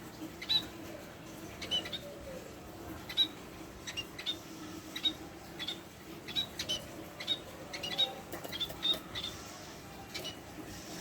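Budgerigar chirping: short high chirps, one or two a second at irregular spacing, over a steady low hum.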